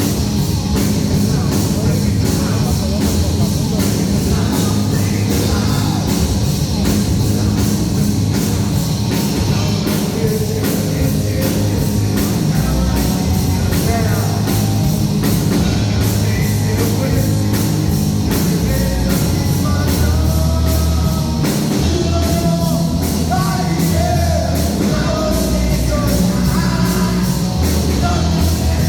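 Heavy metal rock music with singing over a steady, driving drum beat.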